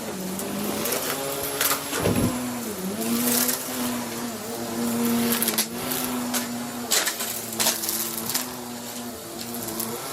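Vacuum cleaner motor running with a steady hum, its pitch dipping briefly a couple of times, while debris rattles and crackles through it in sharp clicks. There is a low thump about two seconds in.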